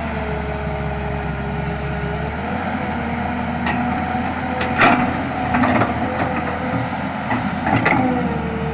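Excavator running steadily, its engine humming under a held whine that shifts in pitch a couple of times, with a few sharp clanks, the loudest about five and eight seconds in.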